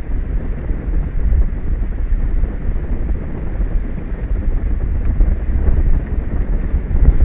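Wind buffeting an exposed microphone: a steady, low rumble that swells and dips in gusts.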